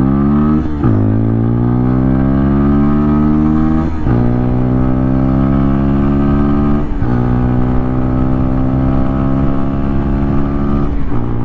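2024 CFMoto Papio CL's small single-cylinder engine accelerating hard at full throttle. The pitch climbs through each gear and dips briefly four times as it shifts up, and each climb is slower than the last.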